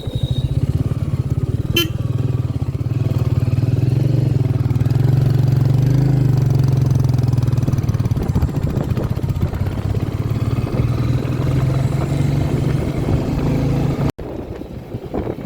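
Royal Enfield Meteor 350's single-cylinder engine running steadily while the bike is ridden along, heard from on board. There is a sharp click about two seconds in, and the level drops abruptly near the end.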